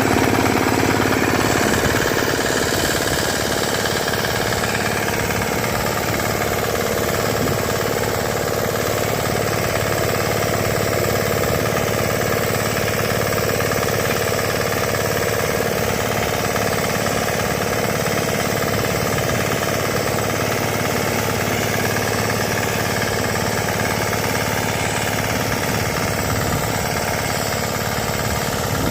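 The 5 hp engine of a Bharat nano tractor (mini power cultivator) running steadily with a rapid, knocking beat. It runs a little louder for the first two seconds, then holds even.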